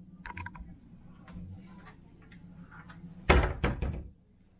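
A cabin storage cupboard door being handled: a few light clicks, then it is shut with a loud thunk about three seconds in, followed by a quick rattle.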